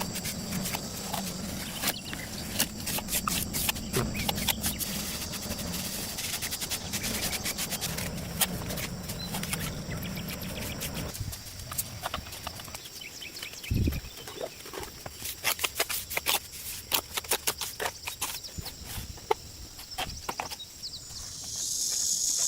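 Irregular sharp knocks and clicks, with a steady high-pitched drone and a low hum that stops about halfway through.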